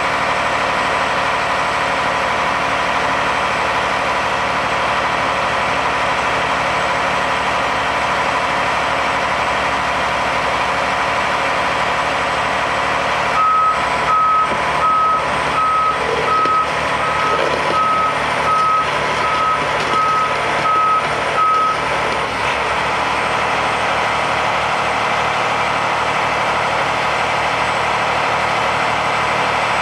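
Truck engine running steadily. Partway through, a reversing alarm beeps at an even pace, about a dozen beeps, then stops.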